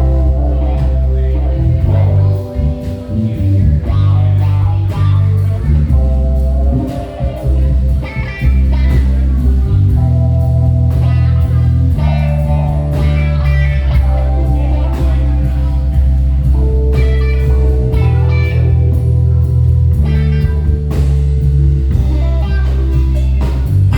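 Live band playing a blues-flavoured groove: heavy bass, drums, keyboard and guitar.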